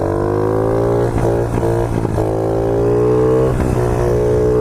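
A 50cc pit bike's small engine pulling hard under throttle, its revs climbing slowly and steadily, with a brief dip about three and a half seconds in. The bike is being held up in a wheelie.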